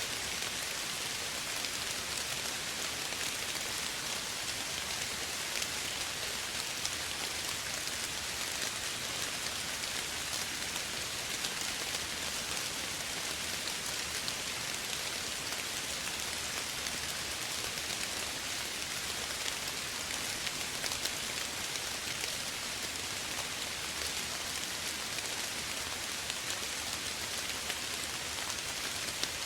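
Steady soft rainfall, with many small drops pattering on a surface.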